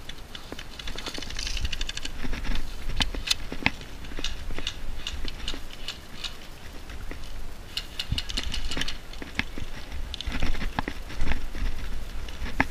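Airsoft gunfire: runs of rapid, evenly spaced clicks about a second in and again around eight seconds, with scattered single clicks over low rumbling handling and movement noise.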